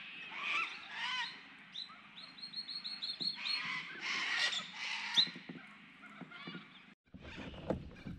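Several birds calling at once: curving whistled calls and, a couple of seconds in, a quick run of about eight short high notes. Near the end the birdsong cuts off and a low rumble takes over.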